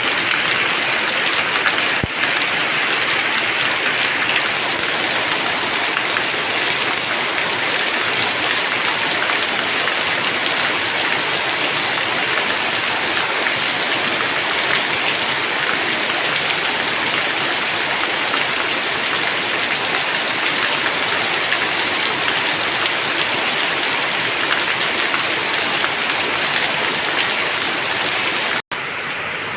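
Steady rain falling, a dense even hiss of drops with no let-up. It breaks off for an instant near the end and comes back slightly quieter.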